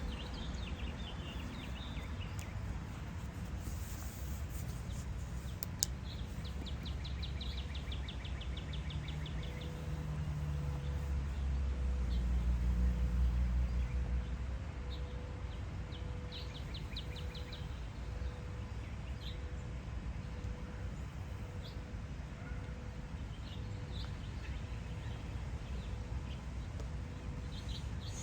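Garden birds singing and calling, with short chirps and quick trills, over a steady low background rumble that swells for a few seconds about ten seconds in.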